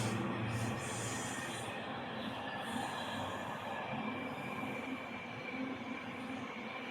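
A passing train running on the rails: a steady rumble with bursts of high hiss from the wheels that come and go.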